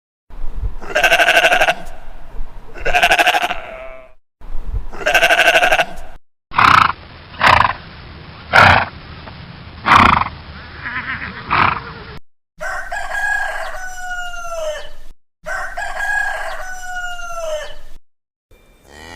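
Farm animals calling in a string of short clips separated by brief silent cuts: loud, drawn-out pitched calls repeated a few times, and near the end calls that fall in pitch at their close.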